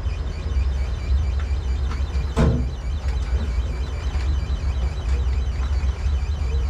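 Vehicle engine running with a steady low rumble, and a single sharp knock about two and a half seconds in.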